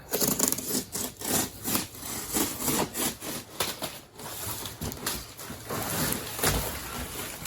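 Replacement sheet-metal body parts and their packaging being handled and sorted through: irregular scraping, rustling and light knocks.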